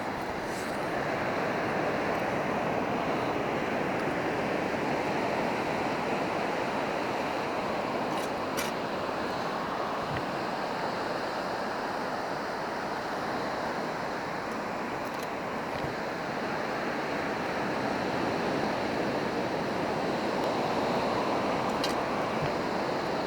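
Surf washing steadily onto a beach, swelling and easing gently, with a few faint clicks.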